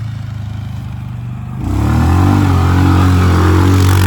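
A motor vehicle's engine running, then revving up about one and a half seconds in and holding at a louder, higher pitch.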